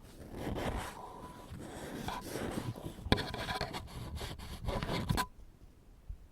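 ASMR ear-picking sounds: an ear pick scraping and rubbing in quick strokes, mixed with sharp clicks, stopping abruptly about five seconds in.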